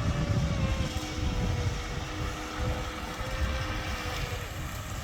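Distant whine of an electric radio-controlled boat running on the water, its pitch drifting slightly down and dropping out about four seconds in, under heavy wind rumble on the microphone.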